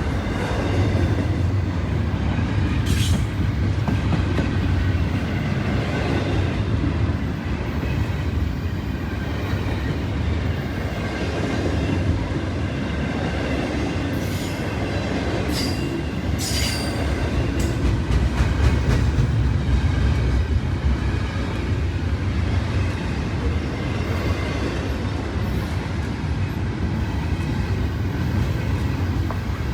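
A train rolling past: a steady low rumble of wheels on the rails, with brief high-pitched wheel squeals about three seconds in, a few times in the middle and once near the end.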